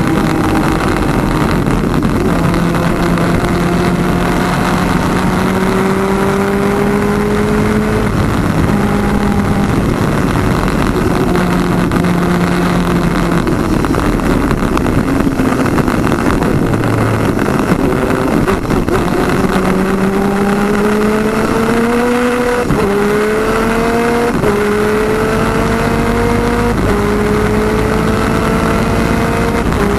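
PVP twin-cylinder 250cc two-stroke superkart engine at racing speed, its pitch climbing and then dropping sharply at each gear change, with three quick upshifts about three-quarters of the way through. A loud steady rush of noise runs under the engine.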